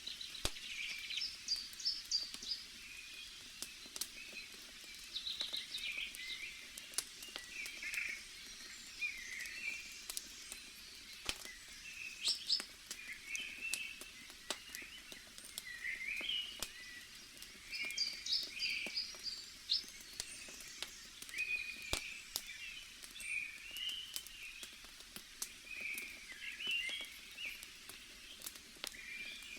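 Small birds chirping and twittering throughout, over scattered sharp pops and crackles from a burning wood campfire.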